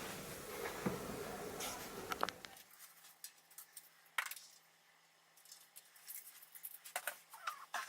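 Faint, scattered small clicks and scratches of hand work. A low steady hiss stops suddenly about two and a half seconds in, leaving near silence between the clicks.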